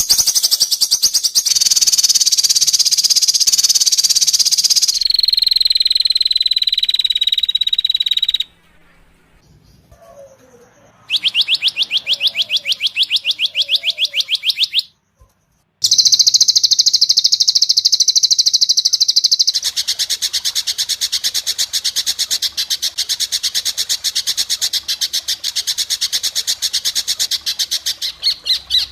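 Songbird recordings spliced together with abrupt cuts: rapid, high-pitched repeated notes and trills, a held whistled note a few seconds in, and a brief quiet gap near the middle. The second half is a fast, continuous rapid-fire series of chattering notes.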